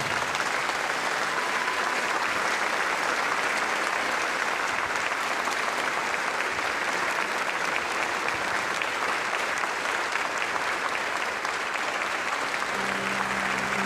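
Congregation applauding steadily. Sustained keyboard-like music notes come in near the end.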